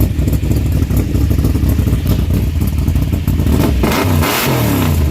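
Car engine running at a loud, rumbling idle, then revved once about four seconds in, its pitch falling back as the revs drop.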